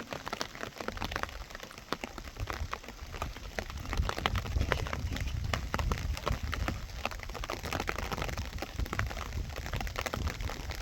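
Heavy rain falling, with many separate drops pattering and ticking close by over a steady wash and a low rumble underneath.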